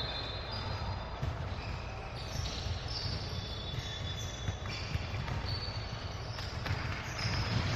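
Basketball game on a gym court: a ball bouncing and sneakers squeaking in short, repeated squeals, over a steady low rumble of the hall.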